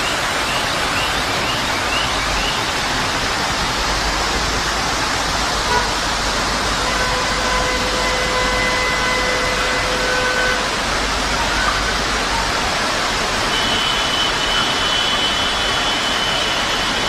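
Steady, loud rush of floodwater and torrential rain. A vehicle horn sounds for about three seconds in the middle, and a higher steady tone comes in near the end.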